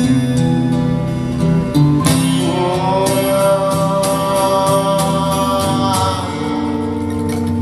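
Live music: an acoustic guitar playing an instrumental passage of a song, with long held melody notes over the plucked chords for a few seconds in the middle.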